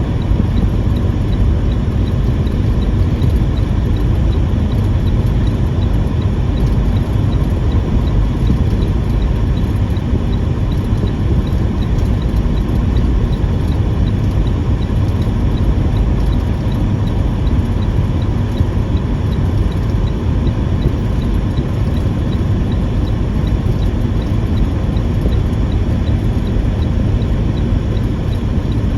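Tractor-trailer driving on a snowy, icy highway: a steady, low rumble of engine and road noise.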